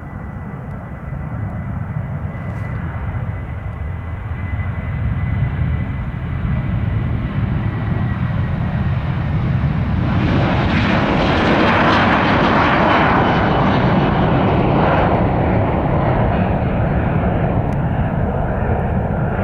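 Ryanair Boeing 737-800's twin CFM56-7B turbofan engines at take-off power as the jet rolls, rotates and climbs out, with a steady low rumble that grows louder, peaks from about ten to fifteen seconds in, and eases slightly near the end. A thin high whine fades out after about eight seconds.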